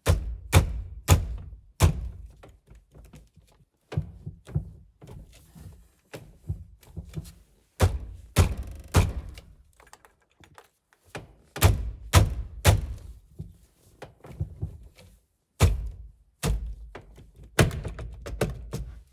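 Repeated heavy thunks, often two or three in quick succession, as a stock steering wheel stuck tight on the steering column splines is jerked hard to break it loose, knocking against the loosened centre nut.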